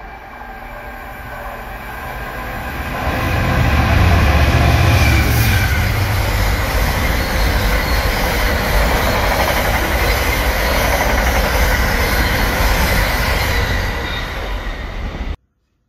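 Container freight train passing close by: a rumble that builds to its loudest about four seconds in, holds steady with the clatter of the wagons on the rails, then cuts off abruptly near the end.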